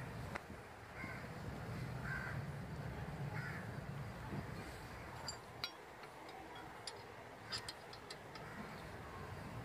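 A bird calling three short times in the first few seconds, then a run of sharp light clicks and taps of metal parts as the brake caliper and its bolts are handled and fitted.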